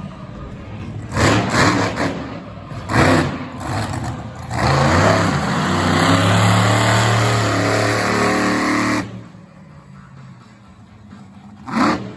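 Devastator monster truck's engine revving in a few short throttle blips, then held at full throttle for about four seconds before easing off; two more short blips near the end.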